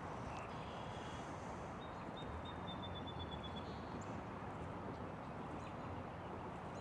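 Quiet outdoor riverbank ambience, a steady faint hiss, with a faint high bird trill about two seconds in lasting a second and a half.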